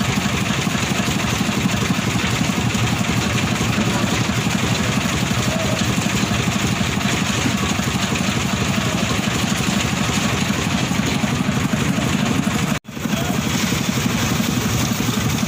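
Construction machine engine running steadily at a constant speed, with a fast, even pulse. Just under two-thirds of the way through, the sound drops out for a split second, then carries on unchanged.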